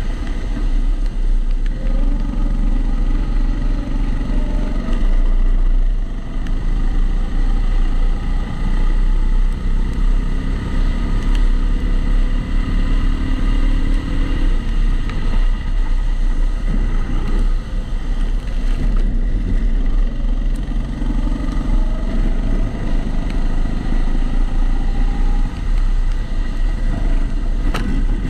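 A rental kart's engine runs continuously through a lap, its pitch climbing and falling as it revs up and then backs off, over and over. It sounds muffled because the camera is inside a waterproof housing, and a steady extra noise sits under it.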